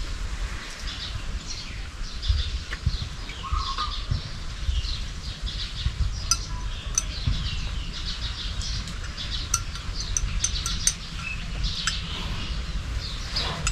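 Small birds chirping and twittering continuously, with a few sharp ticks in the second half and a steady low rumble underneath.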